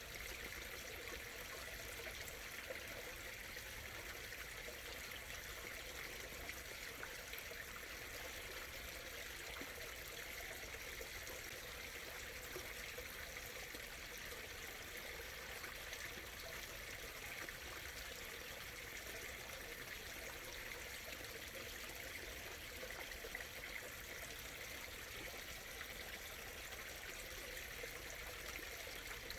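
A small stream running and trickling over stones, a steady, even flow of water.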